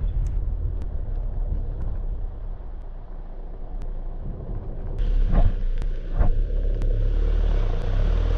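A 4x4 driving along a rough dirt track: steady low engine and road rumble, with a couple of jolts about five and six seconds in. A rushing hiss grows louder over the last few seconds.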